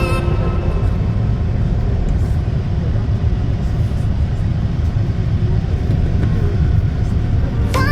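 Steady low rumble of a moving Toronto transit vehicle in motion.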